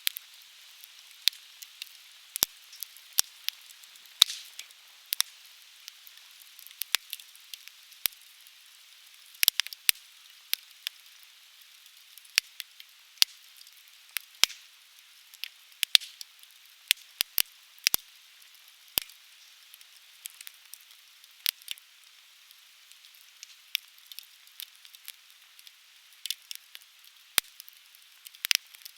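Conifer firewood burning in a bonfire, crackling with frequent, irregularly spaced sharp pops over a steady soft hiss.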